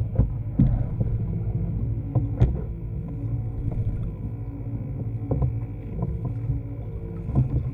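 Steady low rumble of water and wind around a kayak at sea, broken by a few sharp knocks against the hull.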